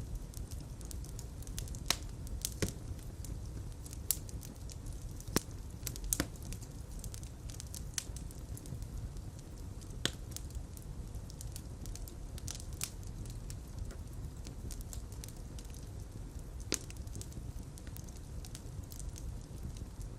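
Fire crackling in a fireplace: irregular sharp pops and snaps over a steady low rumble of flames.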